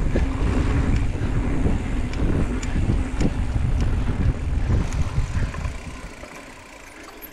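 Wind buffeting the microphone and mountain bike tyres rolling over a dirt trail, with scattered rattles and clicks from the bike. It dies down near the end.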